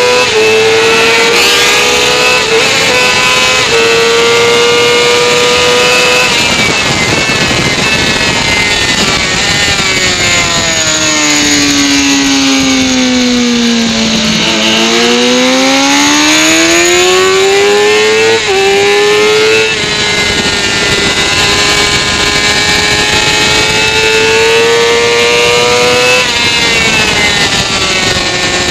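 Motorcycle engine at track speed heard from an onboard camera, with wind rush: held at high revs with a few quick upshifts, then the revs fall away as the bike slows for a corner about halfway through, and climb again as it accelerates out, with more upshifts.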